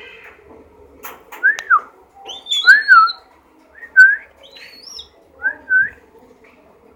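Pet eagle calling: a run of high, whistled notes that rise and fall, mostly in quick pairs, with a few higher gliding whistles between them. These are hungry calls from a bird that is still begging for food.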